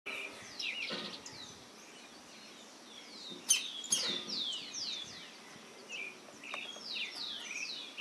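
Birds chirping: many quick, overlapping downward-sliding chirps, with two sharp clicks about three and a half and four seconds in.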